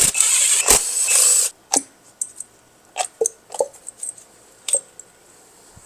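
An 8 mm socket tool working the coil-pack bolts loose, a loud burst of tool noise lasting about a second and a half. It is followed by scattered light clicks and clinks of bolts and parts being handled.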